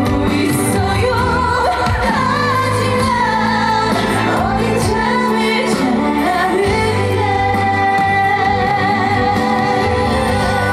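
A woman singing a trot song over instrumental accompaniment, holding a long note with vibrato in the second half.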